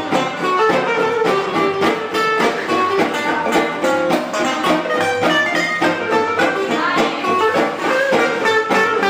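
Live band music in a gypsy style, led by fast plucked guitar with a bowed string line behind it.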